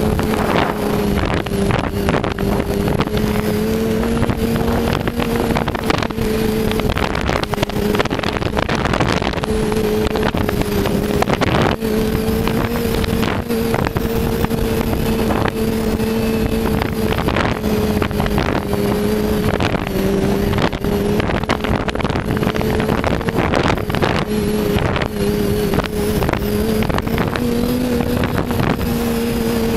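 Yamaha Attak snowmobile's four-stroke four-cylinder engine running through an Excell aftermarket exhaust at a fairly steady cruising speed, its note drifting slightly up and down with the throttle. Wind buffets the microphone throughout.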